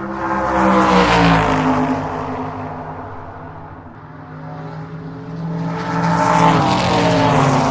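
Motor vehicle engine sound that swells and fades twice, about a second in and again near the end, its pitch sliding down each time like a vehicle passing by.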